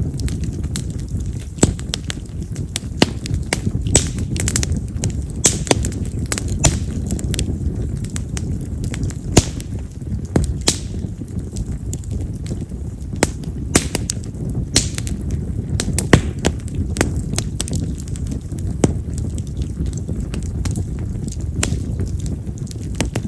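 Split wild cherry (yamazakura) firewood burning in an open fire: a steady low rush of flame with frequent sharp crackles and pops. A few of the pops stand out much louder than the rest, at about 1.5, 9.4 and 16 seconds in. This wood is known for loud, firecracker-like crackling.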